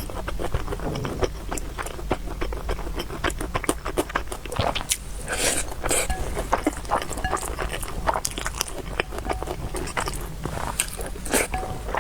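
A person chewing and eating noodles, with many quick wet mouth clicks and smacks.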